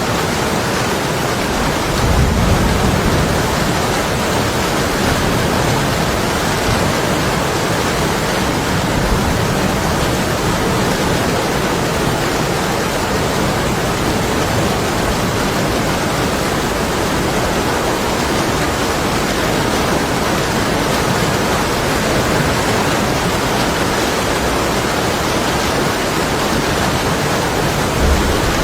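Heavy rain beating steadily on window glass, a dense even hiss. A low rumble of distant thunder swells briefly a couple of seconds in and again near the end.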